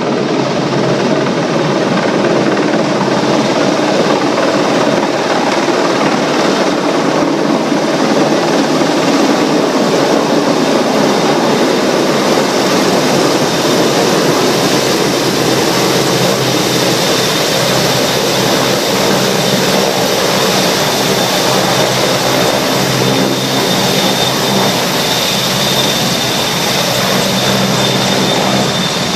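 Large Danish Navy turbine helicopter coming in to land, its rotor and engines running loudly and steadily. About halfway through a thin high turbine whine comes in and holds.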